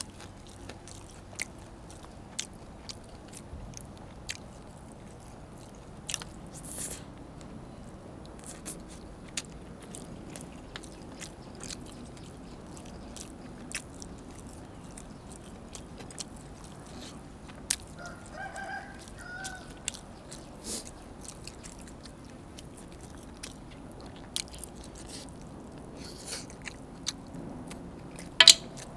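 Close-up eating sounds: biting, chewing and crunching through pork ribs and raw vegetables, with frequent small sharp clicks and one louder crunch near the end. A short pitched call is heard in the background about 18 seconds in.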